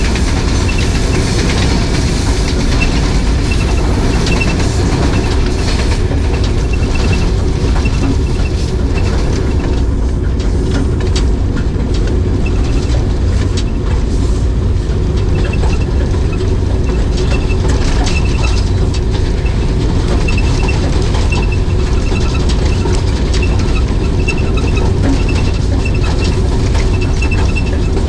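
Kohat Express train running along the track, heard on board: a steady low rumble of wheels and carriage, with a faint high squeak that comes and goes.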